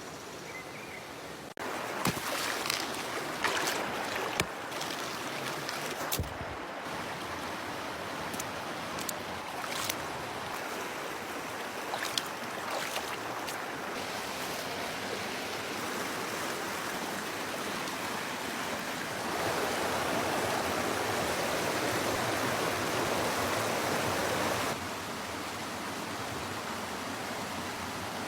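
Campfire cooking sounds: a steady hiss with scattered sharp crackles and clicks over the first half. A louder hiss comes in for about five seconds near the end, then drops back.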